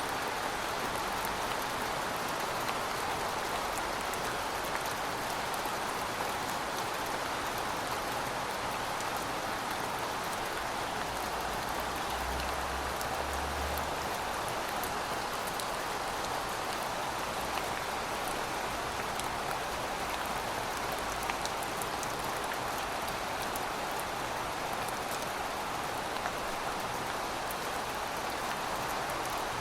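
Steady rain falling on pavement, an even hiss with scattered sharper ticks of individual drops.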